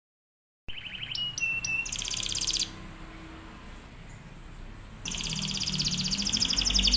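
Domestic canary singing: a short rising note and a few high whistles lead into a fast rattling trill. After a pause of about two seconds, a long rapid trill starts about five seconds in.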